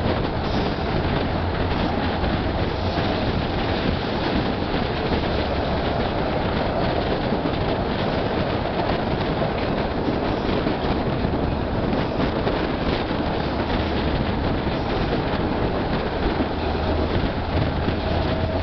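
Steady running noise of an EFVM passenger train in motion, heard at an open carriage door: the wheels rumbling and rattling on the rails with a low hum underneath.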